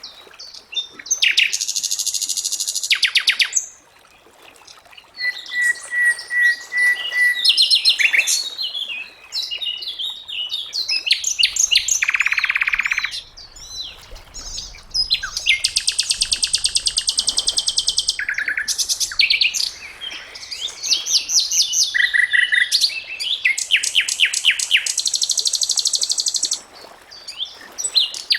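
Sikatan londo flycatcher singing a varied song of fast trills and buzzy chattering phrases, with a short run of clear whistled notes and brief pauses between phrases.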